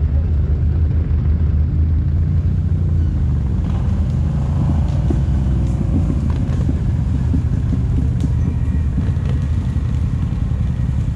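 ATV engine running steadily while riding, a constant low rumble with a few faint clicks and knocks.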